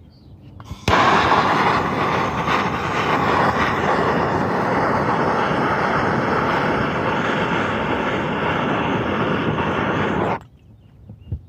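Roofing torch flame running steadily for about nine seconds, starting abruptly about a second in and cutting off near the end, drying wet gutter roofing that is giving off steam.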